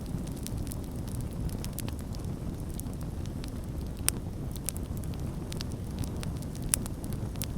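Campfire crackling: frequent sharp pops and snaps over a steady low rumble, with two louder pops, one about halfway and one near the end.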